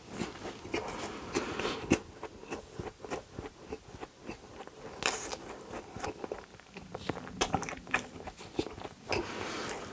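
Close-miked chewing of a large mouthful of soft glazed doughnut, with many irregular mouth clicks and smacks.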